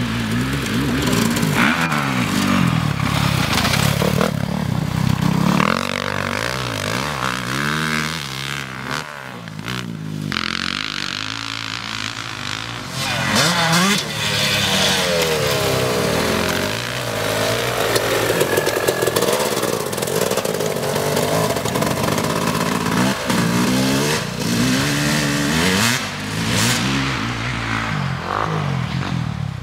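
Motocross bike engines revving hard and easing off as they ride the track. The pitch climbs and drops repeatedly through the gears, and at times two bikes are heard at once.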